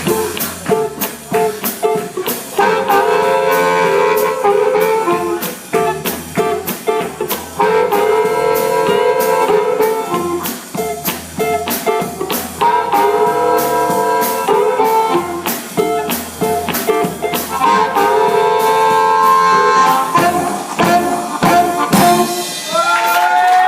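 Live rhythm-and-blues band playing: a busy, driving drum beat under guitar, with a held horn phrase that returns about every five seconds.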